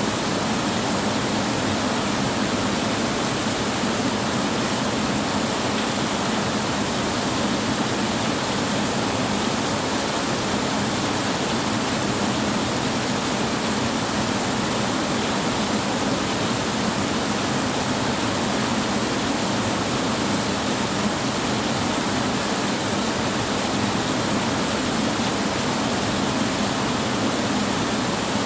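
Steady heavy rain, an even hiss with no thunder or other sudden sounds.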